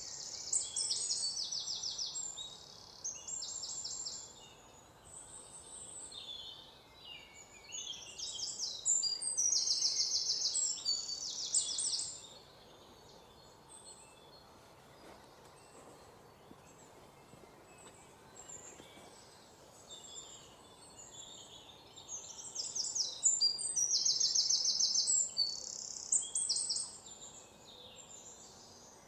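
A songbird singing in three bouts of fast, high-pitched trills, each a few seconds long, with quieter stretches of faint outdoor background between them.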